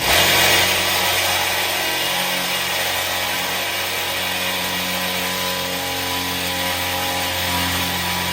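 Power drill running at speed with a 1/4-inch bit, drilling out a hole in the metal lid of a Weber Smoky Mountain smoker. It starts abruptly and runs as one steady, even whine with no pauses.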